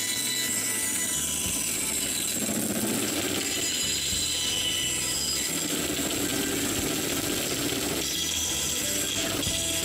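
Power tool running steadily while cutting a slot in wood.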